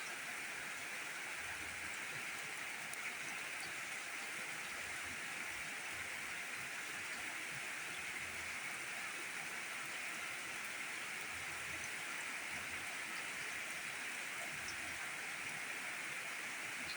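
Steady rainfall, an even hiss of rain that does not let up.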